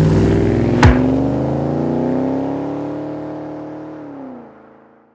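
Car engine revving: the pitch climbs and holds, then falls away and fades out near the end, with one sharp click about a second in.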